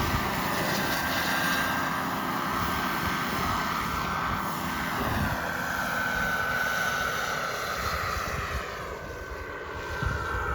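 Radio-controlled model jet's turbine engine running: a steady high whine over a rushing exhaust. In the second half its pitch slowly falls and the sound fades a little.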